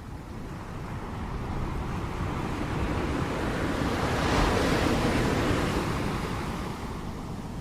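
Ocean waves breaking on the shore: a wash of surf that swells to a peak about halfway through and then recedes, over a steady low rumble.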